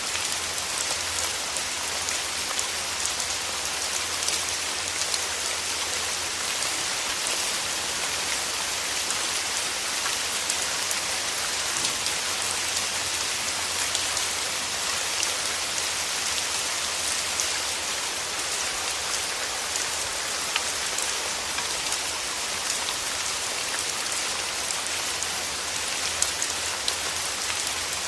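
Steady rain falling on rose petals and leaves: a constant, even hiss of rainfall with many small, distinct drop ticks scattered through it, and a faint low hum underneath.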